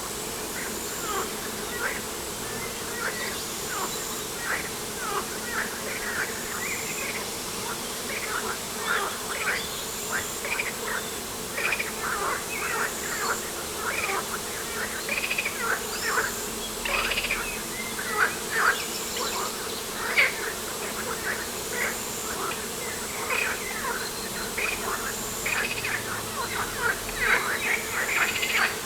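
Birds chirping: a dense run of short, overlapping calls that grows busier about a third of the way in, over a faint steady outdoor hum.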